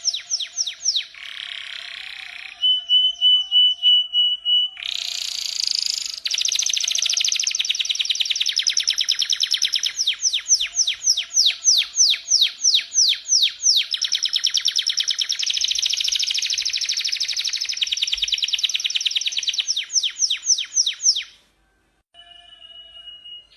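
Small cage songbird singing: long runs of rapid, evenly repeated descending notes, about four a second, broken by a held steady whistle a couple of seconds in. The song stops suddenly near the end, then the steady whistle comes back faintly.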